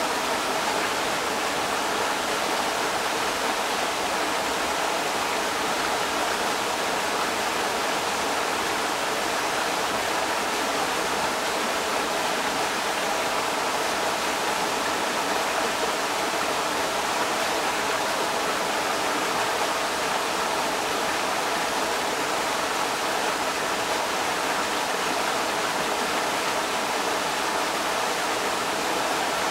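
Creek water rushing steadily over rocks, an even, unbroken rush of running water.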